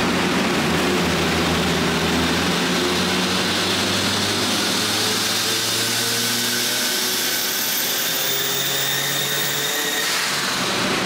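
Alfa Romeo 75 Turbo America's 1.8 turbo four-cylinder running hard on a hub dyno during a power run, a steady loud engine note whose pitch climbs slowly through the run.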